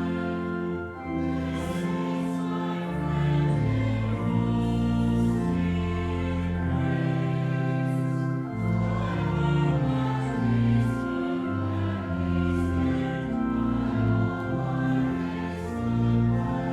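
Church choral music: voices singing a slow hymn over sustained chords that change every second or so.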